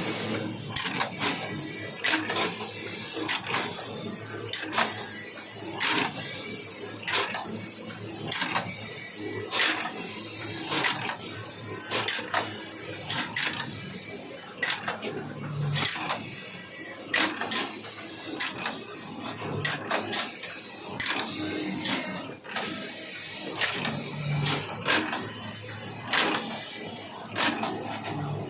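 Matsuya M100 automatic knitting machine running, a steady mechanical whir with sharp clacks repeating a little more than once a second.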